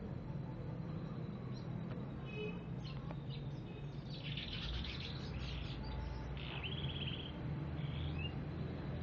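Songbird chirping and twittering: faint scattered chirps, then a dense burst of twittering about four seconds in, a short even trill and a couple of brief calls near the end, over a steady low hum.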